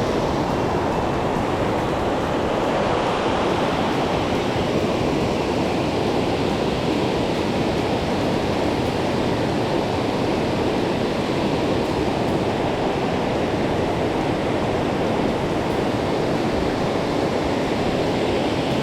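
Rushing river water, a steady even rush.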